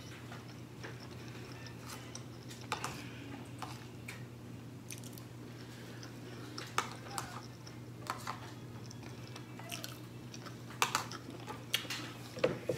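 A person chewing a mouthful of smothered pork chop, rice and vegetables close to the microphone, with scattered short wet smacks and clicks that come more often near the end. A low steady hum runs underneath.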